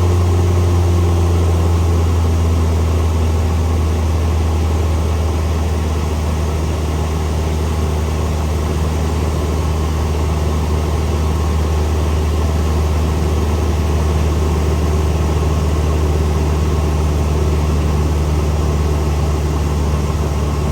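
Cessna 172 Skyhawk's four-cylinder piston engine and propeller running in a steady drone with a strong low hum. The drone eases off slightly in the first few seconds.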